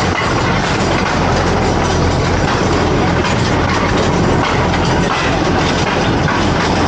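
Train running along the track: a steady, loud mix of engine and wheel-on-rail noise.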